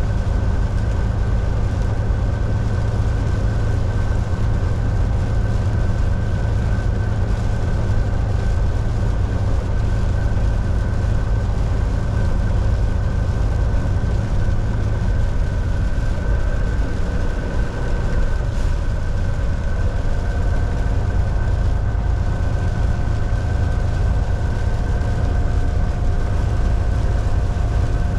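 Volvo VNL 760 semi truck heard from inside the cab while cruising on the highway: a steady low engine and road rumble with a constant high whine over it.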